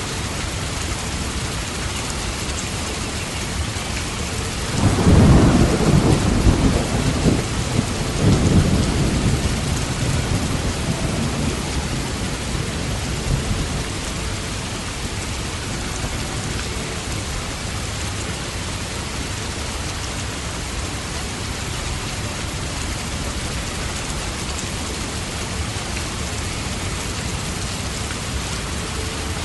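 Steady rain falling, with a roll of thunder that breaks about five seconds in, swells again a few seconds later and rumbles away within about eight seconds.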